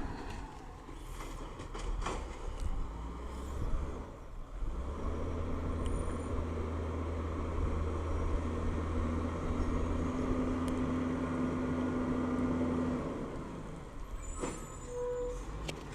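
Peterbilt 320 automated side-loader garbage truck running, its engine speeding up for about eight seconds with a steady whine, then dropping back. A few clicks and knocks near the end.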